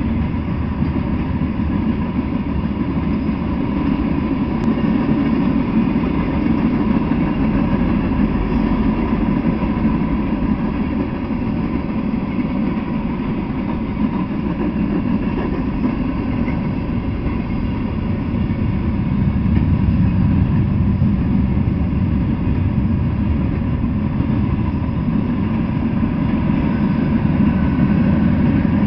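Freight train cars rolling past on the tracks: a steady rumble of steel wheels on the rails.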